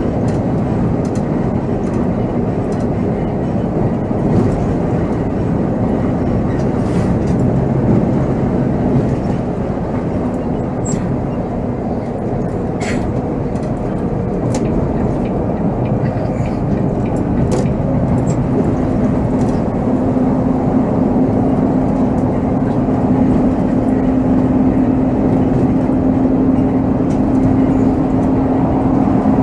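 Volvo B7R coach being driven, heard from the driver's seat: steady diesel engine and road noise. An engine hum grows stronger about two-thirds of the way through, with scattered light rattles.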